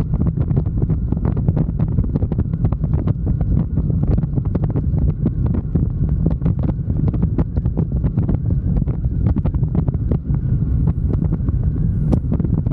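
Wind buffeting the microphone of a camera on a moving motorcycle: a steady loud rumble with constant crackling gusts, the motorcycle running underneath.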